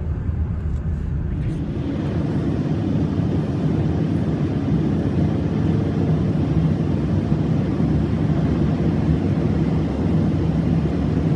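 Car driving along: a steady low engine hum with road noise.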